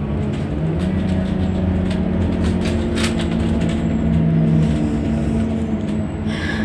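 Scania N230UD double-decker bus engine, a 9-litre five-cylinder diesel, running steadily under way. Its note rises about a second in and drops near five seconds, with a few rattles around three seconds and a short hiss near the end.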